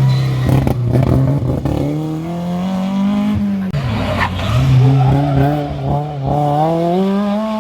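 Historic rally car engine under hard throttle on a stage: the revs hold, climb, drop sharply for a moment about halfway through, then climb again.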